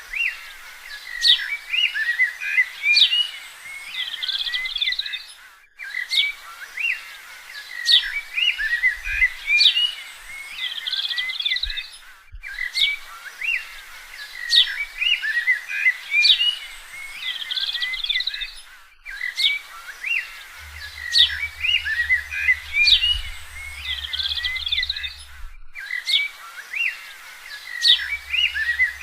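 Several birds chirping and trilling together in a busy chorus, broken every six and a half seconds or so by a brief total dropout, with the same stretch of song seeming to come back each time. A low hum joins in about two-thirds of the way through and again near the end.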